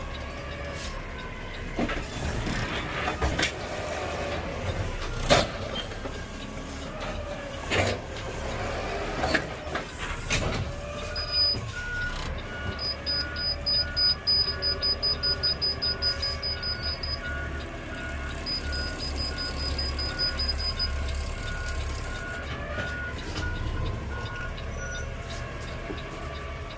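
Garbage truck engine running with several sharp knocks and clunks in the first half. Then, about halfway through, a reverse beeper starts and beeps steadily at about two beeps a second for some thirteen seconds, with a higher, faster beep sounding alongside for part of that time.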